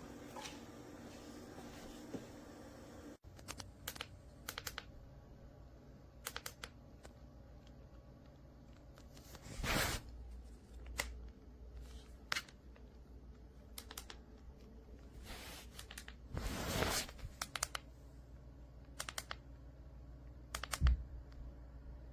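Scattered light clicks and taps, with two brief scraping rustles, one about ten seconds in and a longer one near the end. A steady hum under the first three seconds cuts off abruptly.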